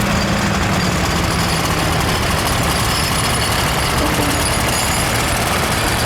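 Vintage farm tractor engines running steadily at low speed as the tractors drive around the arena.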